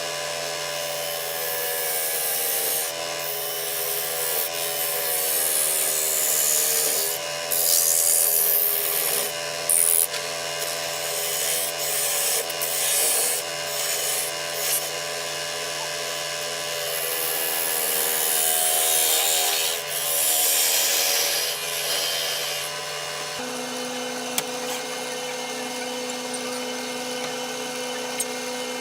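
Wood lathe running while a turning tool cuts the end face of a spinning walnut blank, a rough scraping that swells and eases stroke by stroke over the motor's steady hum. About 23 seconds in the cutting stops and only the lathe's hum goes on.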